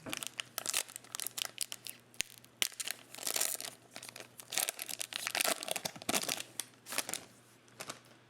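Trading cards and their foil pack wrapper being handled close to the microphone, with irregular crinkling, rustling and scraping that comes in clusters, busiest in the middle.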